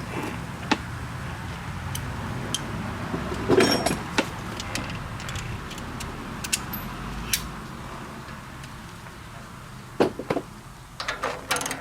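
Scattered metallic clicks and knocks of hand tools working on tractor brake parts, over a steady low hum. There is a louder clatter about a third of the way in and a quick run of knocks near the end, as a bolt is worked loose.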